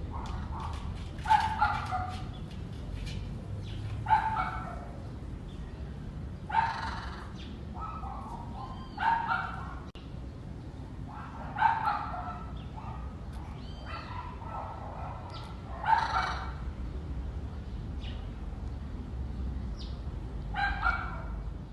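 Parrots calling in short squawks, one or two at a time, about every two to three seconds, over a low steady rumble.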